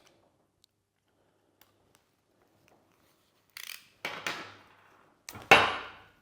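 A few short metallic clanks from tools and steel forge parts being handled, the last and loudest about five and a half seconds in, with a brief ring.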